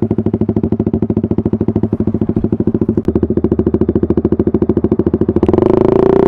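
Suzuki GSX-R150's single-cylinder four-stroke engine idling, a steady, even beat of rapid firing pulses. Near the end a denser, steadier drone comes in over it.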